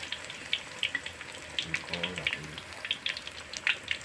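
Flour-coated tempeh frying in hot oil in a wok: a steady sizzle with scattered crackles and pops.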